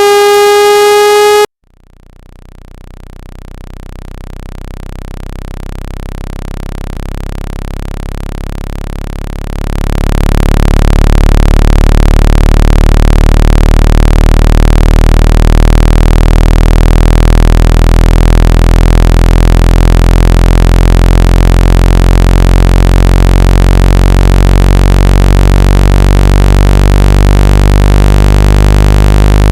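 Synthesized water-ejection tones for shaking water out of a phone speaker. A steady buzzy tone cuts off sharply about a second and a half in. A deep, low buzz then swells in, steps up louder about ten seconds in, and holds steady.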